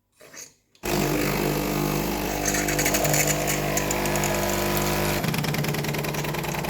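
DeLonghi fully automatic espresso machine running its motor or pump with a loud, steady mechanical buzz. It starts about a second in, and its note changes about five seconds in.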